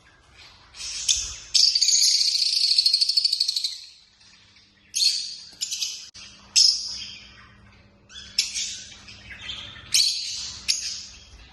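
African lovebirds chattering and chirping in high-pitched calls: a rapid chattering run of about two and a half seconds, then a string of short separate chirps.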